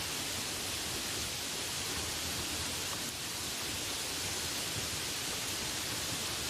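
Steady rain falling: an even, unbroken hiss, brightest in the high range.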